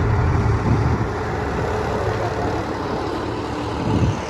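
Tractor diesel engine running steadily at low revs, a continuous low hum.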